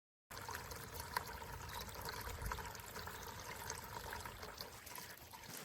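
Water trickling and splashing down the tiers of a Teamson Home four-tier solar cascade fountain, a steady pour that starts suddenly just after the opening.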